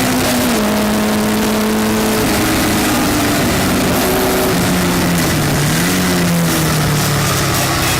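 Westfield race car engine under way, its pitch stepping down in several stages as the revs fall, with a short dip and rise just after halfway.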